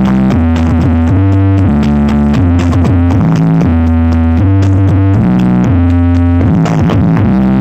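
Loud electronic music played through a large stacked street sound system (a sound horeg rig with 12 subwoofers). A heavy synthesizer bass line steps between notes.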